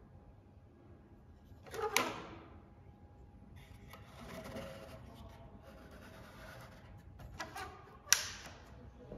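Parts being handled during assembly: two sharp clacks, about two seconds in and near the end, with light rustling and a brief rattle between them.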